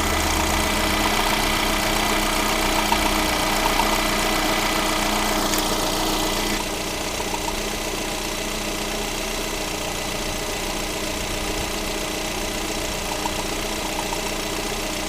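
Freshly rebuilt Lada Granta 126 sixteen-valve engine idling with a knock and scrape in its running, which the owner takes for the camshaft bedding in on its journals. It gets a little quieter about six seconds in.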